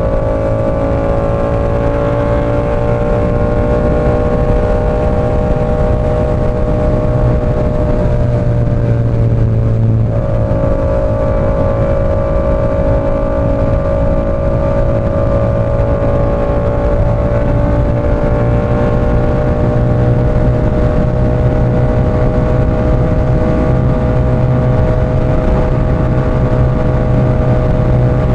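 Yamaha R7's 689 cc parallel-twin engine running through an SC Project CR-T exhaust while riding, holding a steady pitch; the engine note sags slightly and then steps up sharply about ten seconds in.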